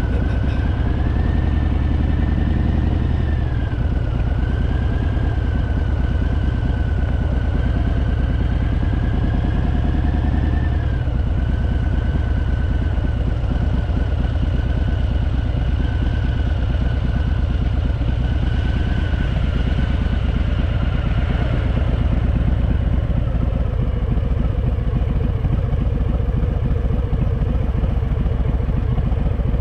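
Harley-Davidson Fat Boy's V-twin engine running steadily at low revs. Its note shifts about three seconds in and again around eleven seconds.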